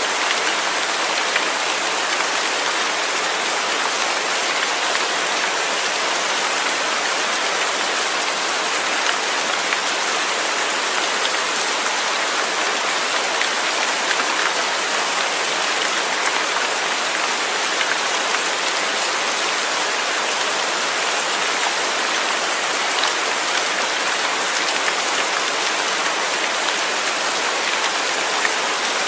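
Steady rain falling on a surface, an even hiss with many small drop ticks through it.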